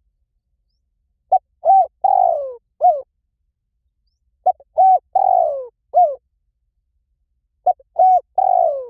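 Spotted dove calling: three phrases of cooing, each four notes with a longer, falling third coo, repeated about every three seconds. The last phrase is cut off near the end.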